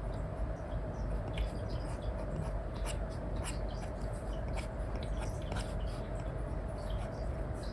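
Apple Pencil 2 with an Elecom replacement nib tapping and scratching across a paper-like screen film on an iPad, in irregular short strokes, over a steady low hum.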